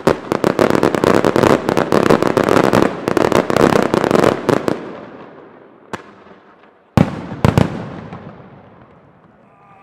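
Closing barrage of a large fireworks display: a rapid volley of shell bursts and crackling reports, many a second, for about five seconds, then dying away. A single bang follows, then three last loud bangs near the end that echo and fade.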